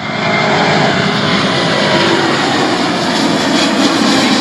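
Boeing 787 Dreamliner's twin turbofan engines at climb-out thrust: a steady, loud rushing rumble that swells at the start and then holds even.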